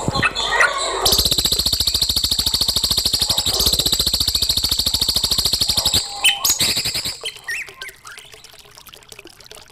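Recorded songbird calls used as masteran song-training material: a burst of chirps, then a long, very fast rattling trill lasting about five seconds, then a few scattered chirps.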